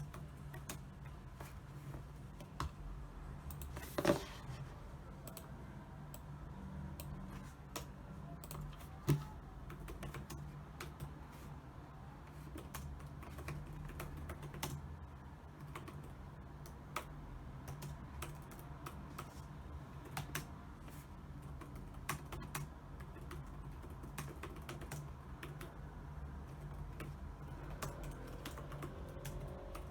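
Typing on a computer keyboard: a continuous, irregular patter of key clicks, with a louder knock about four seconds in and another about nine seconds in.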